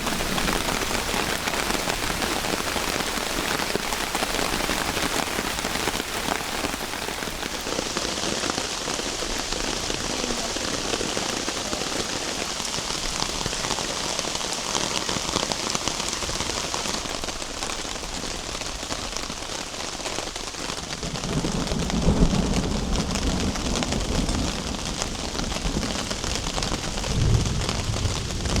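Heavy rain falling steadily, an even hiss of drops, with a couple of low rumbles swelling up in the last third.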